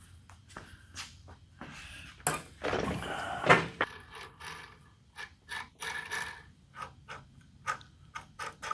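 A short hiss of aerosol cleaner sprayed onto the bandsaw's bearings about two seconds in, with a sharp click near its end, then scattered small clicks and taps as the parts are handled.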